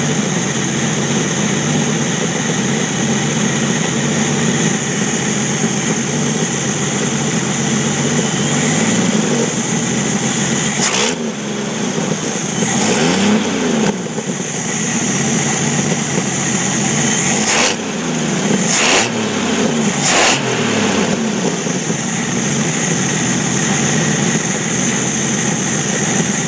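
Jeep Wrangler YJ's 4.2 L inline-six engine running with a misfire. It is revved up and let back down a few times in the middle.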